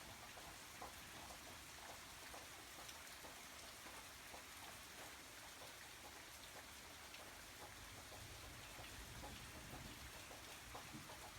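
Soft, steady rainfall: an even hiss of rain with many small drop ticks scattered through it.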